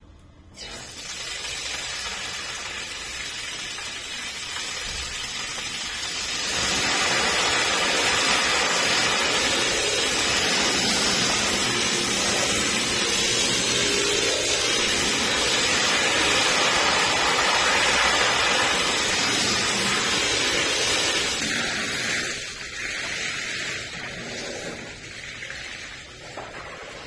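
A hard jet of water spraying onto a carpet, as in a pressure-washer rinse: a steady rushing hiss that starts suddenly, grows louder about six seconds in, and drops back near the end.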